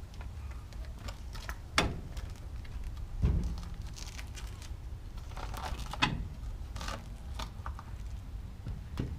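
A truck wheel being handled and fitted back onto its hub: a few metal knocks and clanks, the heaviest a deep thump a little after three seconds in, with lighter clatter between.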